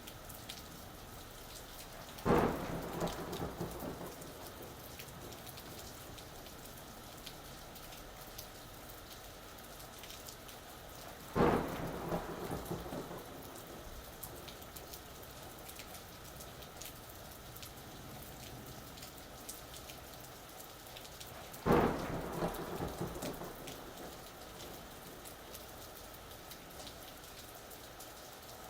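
Steady rain falling, with fine patters of drops. Three sudden claps of thunder, about ten seconds apart, each rumble away over a couple of seconds.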